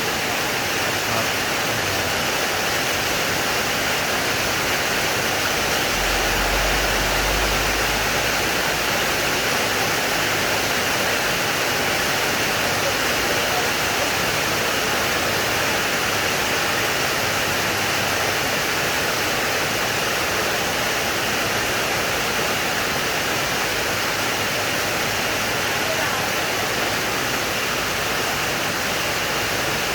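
Heavy rain falling steadily in a constant hiss, with a short low rumble about six seconds in.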